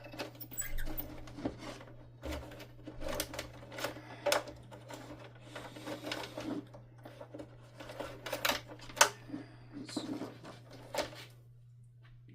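Irregular clicks and light clatter of small plastic and metal parts being handled as wires and connectors are pulled loose from inside a vacuum cleaner, with one sharper click about nine seconds in.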